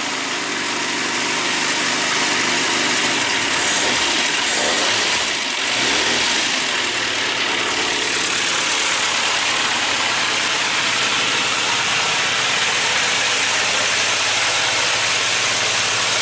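Classic Mini's 1293 cc A-series race engine catching on choke on its first start after the cylinder head rebuild, revved briefly about five seconds in, then running at a steady idle to warm up.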